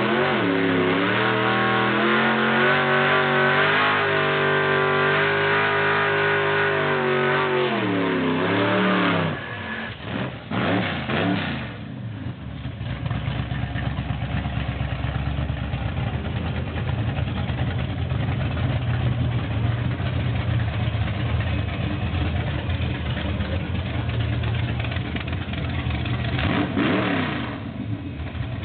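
Car engine revving hard, its pitch rising and falling for the first nine seconds, then dropping away. After that a lower, steadier engine note runs on, with brief pitch sweeps at about ten seconds and again near the end.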